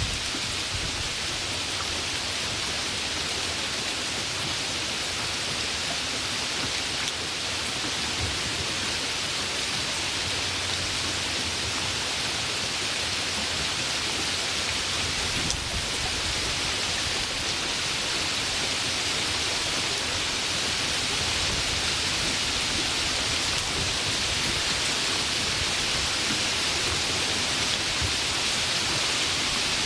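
Steady rain falling, an even, dense hiss that grows slightly louder toward the end.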